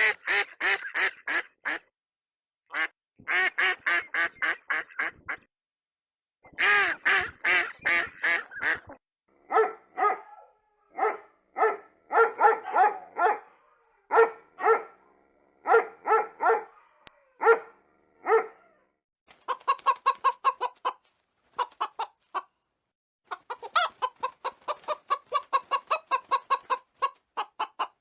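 Domestic fowl calling: quick runs of short clucking notes for the first several seconds, then runs of lower-pitched calls, with short pauses between the runs.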